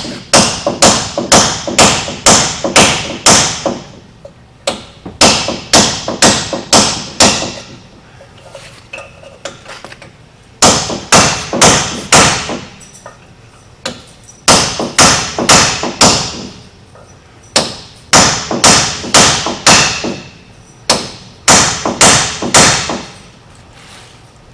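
Hand hammer striking a seized wheel hub assembly, metal on metal, to knock it loose. The blows come in runs of five to eight, about two or three a second, each ringing briefly, with short pauses between runs.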